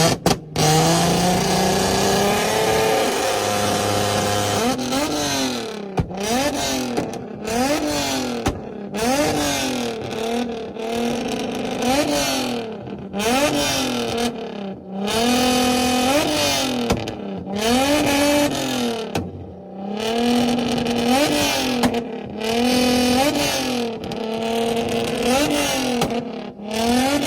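Car engine being revved hard in a rev battle: a long held rev at first, then a string of quick throttle blips, the pitch rising and falling about once a second.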